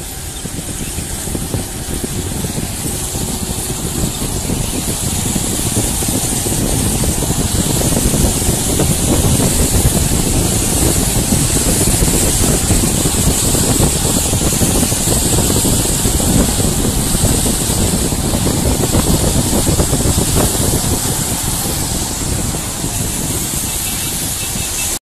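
Heavy rain pouring down, a loud steady hiss with a low rumble underneath, growing louder over the first several seconds and cutting off suddenly near the end.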